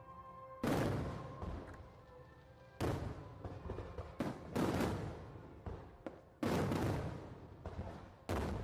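Aerial firework shells bursting one after another: about ten sharp bangs at irregular intervals, each trailing off in a rumbling echo.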